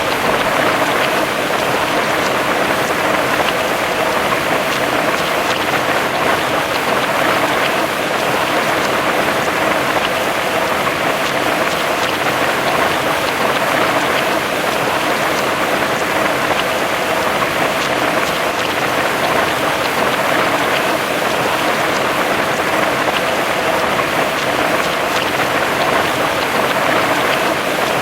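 Heavy rain falling steadily, a dense, even hiss of drops on a surface.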